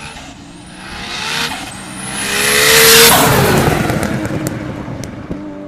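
Nissan Skyline R34 GT-R's twin-turbo straight-six accelerating hard past, its pitch rising through one gear change about a second and a half in. It is loudest about three seconds in, then fades as it moves away, with a couple of sharp cracks near the end.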